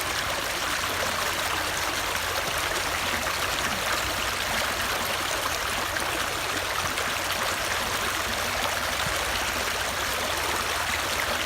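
Steady rush of flowing water from a stream, an even unbroken splashing that stays constant throughout.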